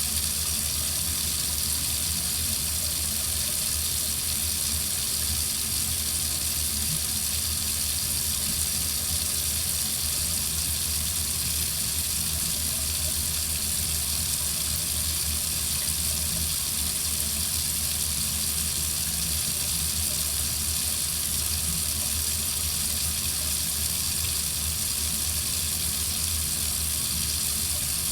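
Water faucet running steadily, an even rushing hiss that does not change.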